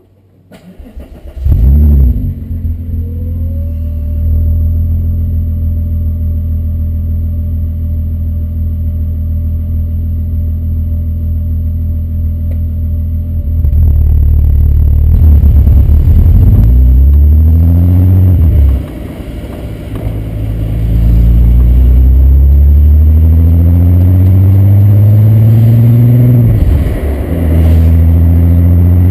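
Volkswagen Corrado's converted 24-valve VR6 engine through a Techtonics Tuning exhaust starting about a second and a half in with a short flare, then idling steadily. About halfway through it pulls away: the revs climb in two long rising pulls, each broken by a brief dip at a gear change, then it settles into a steady cruise.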